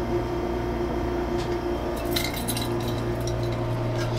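Steady hum of a CAF-built Airport Express train, its low tones unchanging. From about two seconds in, a few light clinks sound over it.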